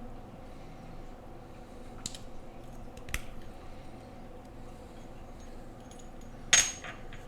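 KTT Coconut Latte mechanical keyboard switch being taken apart by hand: a few small, sharp clicks as the housing is handled, the loudest near the end with a short bright ring. A faint steady hum lies underneath.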